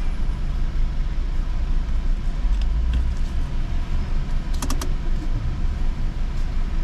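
Car engine idling, heard from inside the cabin as a steady low rumble while the car stands still. A quick run of light clicks comes about four and a half seconds in, with a couple of fainter ones a little before.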